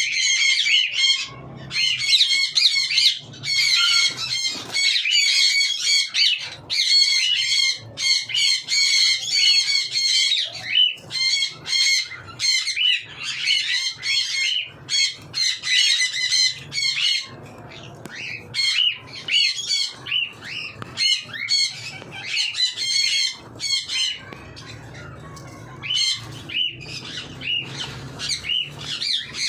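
Cockatiels chattering and calling in quick, continuous runs of chirps and squawks. The calling is busiest in the first half and thins to scattered calls after about 17 seconds.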